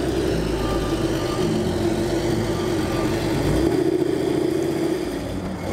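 Car engine running steadily at low revs.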